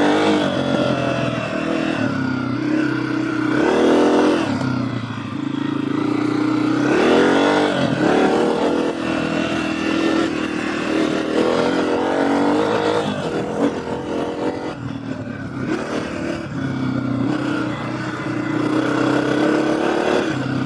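Honda CRF250F dirt bike's single-cylinder four-stroke engine revving and pulling through the gears while riding off road. The pitch rises sharply at the start, again about 4 seconds in and around 7 to 8 seconds in, and holds steadier in between.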